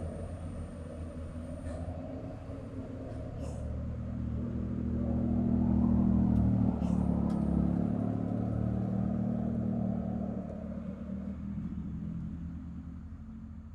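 A heavy road vehicle's engine running as it passes close by. It grows louder to a peak about six seconds in, then fades away toward the end.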